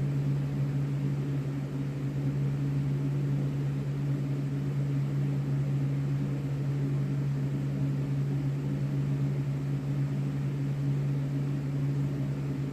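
Steady machine hum with a faint hiss, unchanging throughout: a motor-driven room appliance running.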